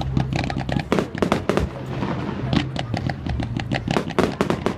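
Fireworks going off in rapid succession: a dense run of sharp bangs and crackles, several a second, thinning briefly about two seconds in. A steady low hum runs underneath.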